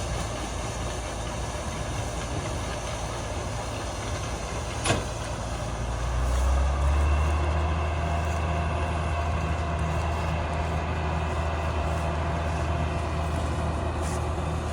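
Combine harvester's diesel engine running steadily, with one sharp click about five seconds in. About six seconds in, its low drone grows louder and holds there.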